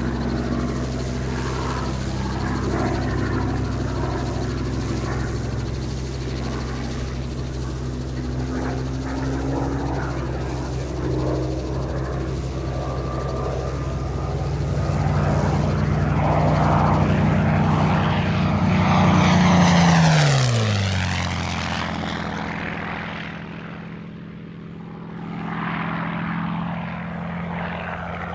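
Supermarine Spitfire Mk VIII's Rolls-Royce Merlin V12 engine growing louder as the fighter approaches. It passes close by about twenty seconds in with a sharp drop in pitch, then fades, and swells again near the end as it comes round once more.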